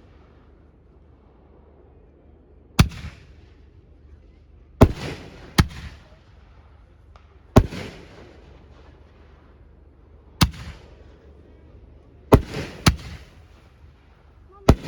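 Fireworks going off: eight sharp bangs a second or two apart, two of them in quick pairs, each followed by a short fading echo.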